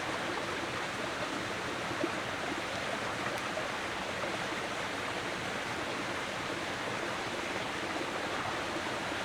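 Steady rushing noise like flowing stream water, even throughout, with a faint tick about two seconds in.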